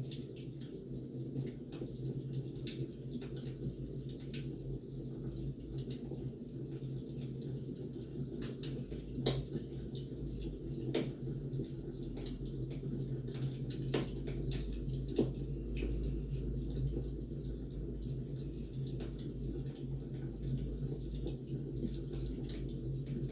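Wood fire burning, crackling with frequent irregular pops and snaps over a steady low rumble.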